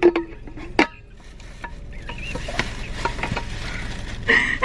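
Utensils and takeout containers being handled while eating: a few sharp clicks in the first second, then lighter clicking and scraping over a steady low hum.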